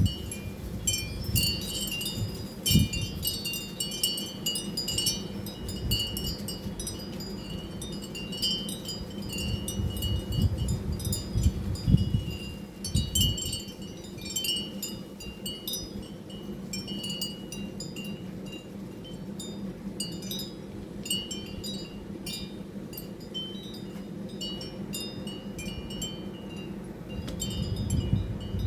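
Light metallic chimes tinkling irregularly, many small strikes throughout, over a steady low hum with occasional low rumbles.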